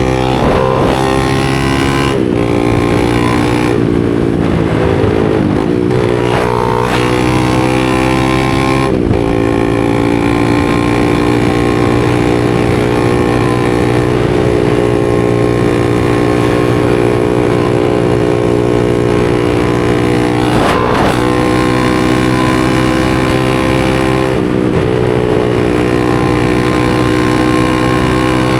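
250 cc supermoto motorcycle engine running under mostly steady throttle at a held pitch, with brief throttle changes several times where the pitch dips and climbs back, most clearly around 2, 4 to 6, 9, 21 and 24 seconds in.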